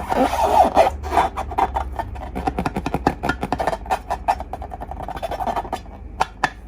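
Hands squishing and working slime: a dense run of small clicks and crackles that thins out near the end, where there are two sharper clicks.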